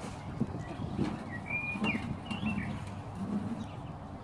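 Birds in the background: a few short high chirps and a run of soft low cooing notes.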